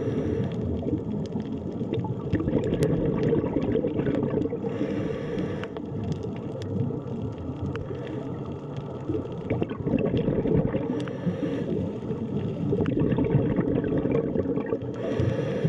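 Underwater sea ambience: a steady, low water noise with scattered small clicks, swelling a little brighter every few seconds.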